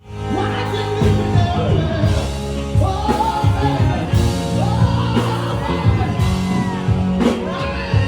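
Live rock music with a lead singer.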